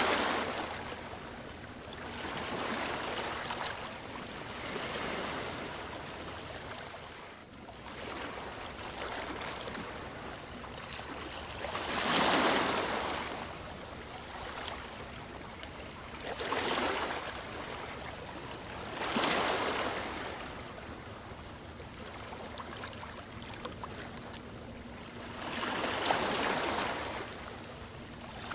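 Ocean waves breaking and washing in, one surge every few seconds, with quieter wash between them.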